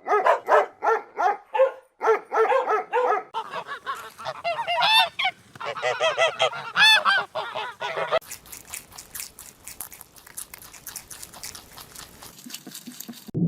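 Geese honking, many short calls in quick succession. About eight seconds in, the calls give way to a run of fast, sharp clicks.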